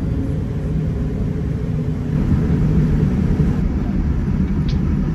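Steady low rumble of a Boeing 787-9 heard from inside the passenger cabin, growing louder about two seconds in.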